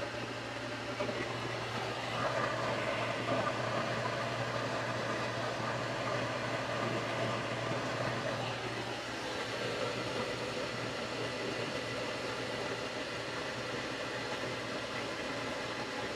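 Combine harvester running steadily: a constant engine drone with a steady low tone and even machine noise.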